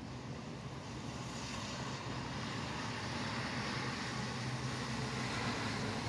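Steady rain with highway traffic close by: a continuous low rumble of vehicles under a hiss of wet tyres and rain, swelling slightly from about a second in as traffic passes.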